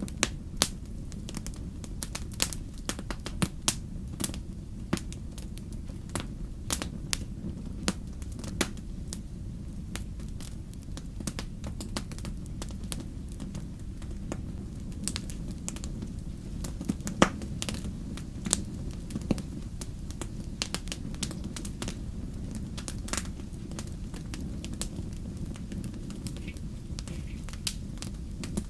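Wood fire crackling, with irregular sharp pops and snaps over a steady low rumble of flames; one pop about two-thirds through is louder than the rest.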